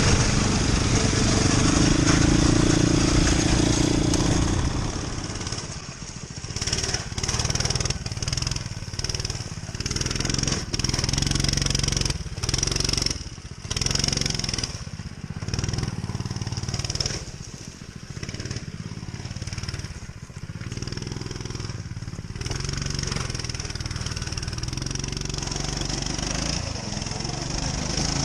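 Motoland RT200 motorcycle engine running under throttle as it is ridden: loud and steady for the first few seconds, then rising and falling in short bursts with brief dips, and settling steadier near the end.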